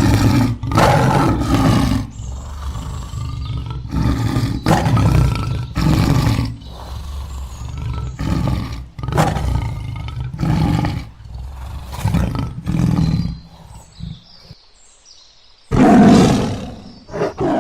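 Tiger growling and roaring in a long series of deep, rough calls, each about a second long, with a short break near the end before one more loud call; the tiger sounds angry.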